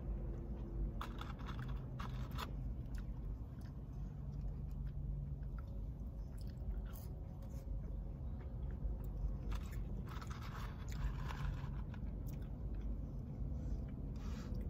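Close-up chewing and mouth sounds of someone eating a sundae with crunchy cookie pieces, with light spoon clicks and scrapes against the cup. A steady low hum runs underneath.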